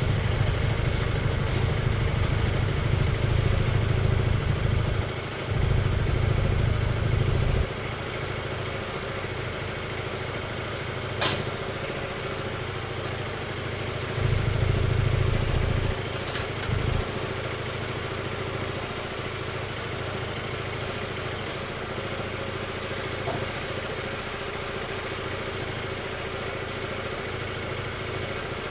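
Scooter engine idling steadily. A louder low rumble runs through the first seven seconds or so and returns briefly about halfway through, and there is a single sharp click about eleven seconds in.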